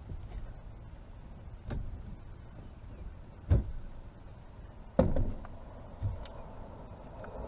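A few sharp knocks and thumps on a kayak, the two loudest about three and a half and five seconds in, while a freshly landed blue catfish is handled aboard.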